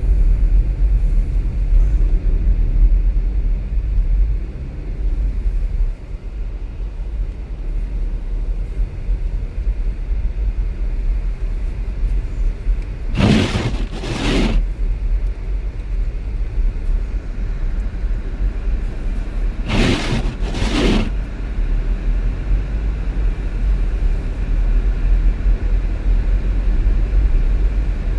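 Steady low rumble of a car driving on a snowy road, heard from inside the vehicle. It is broken twice by a pair of brief noisy sounds, the two in each pair about a second apart and the pairs about six seconds apart.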